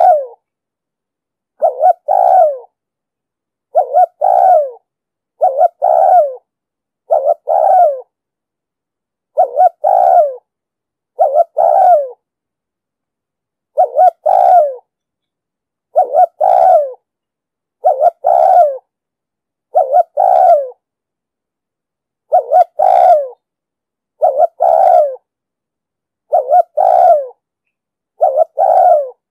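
Spotted dove cooing: about fifteen short phrases, each a brief note followed by a longer coo, repeated about every two seconds with clean silence between them. This is a lure call of the kind played to call wild doves and to train caged ones.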